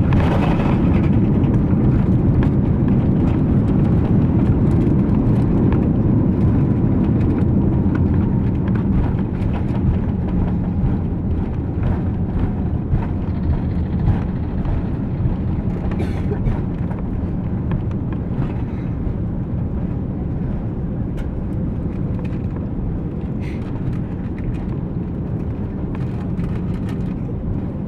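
Cabin noise of an Airbus A340-200 rolling out after touchdown: a loud, steady rumble that eases off gradually as the airliner slows, with scattered light rattles and clicks from the cabin.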